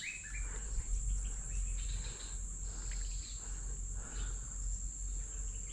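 Insect chorus: a steady high-pitched drone, with faint scattered chirps and a low rumble underneath.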